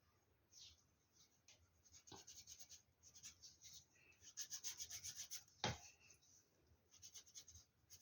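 Gel crayon rubbed over thin EVA foam in quick, short back-and-forth strokes: a faint scratchy rubbing that comes in spells, with one sharp tap about six seconds in.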